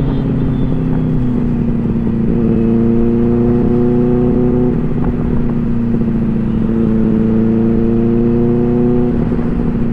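Superbike engine running at a steady cruise under way, its tone holding with small throttle changes, over a low rumble of wind and road.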